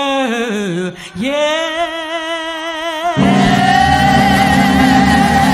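Live gospel singing: a solo voice sings a sustained, sliding run with wide vibrato and almost no backing. About three seconds in, the full band and voices come in loudly together.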